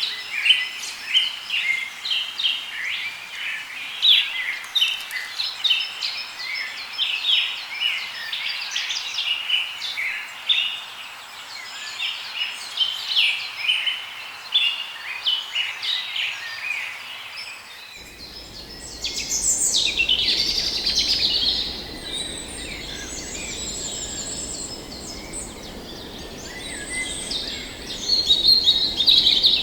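Tropical forest birds chirping and calling in many short, rapid notes. About halfway through, the background shifts abruptly to a steady low hiss and the calls turn higher and sparser, with a dense burst of chirping near the end.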